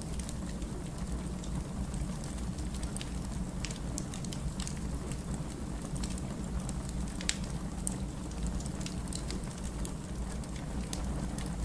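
Firewood burning in a fireplace: a steady low rumble of flame with scattered sharp crackles and pops from the burning logs.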